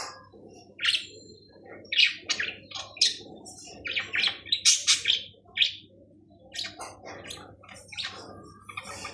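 Budgerigars chirping and chattering: quick runs of short, high chirps with brief gaps between them, over a faint steady low hum.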